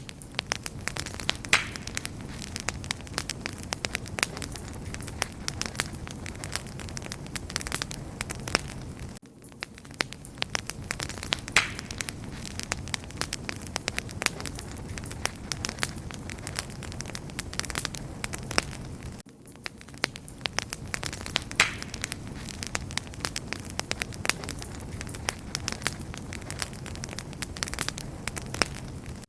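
Wood fire crackling and popping steadily, a dense run of sharp snaps over a soft hiss, with a brief dip in the sound about every ten seconds.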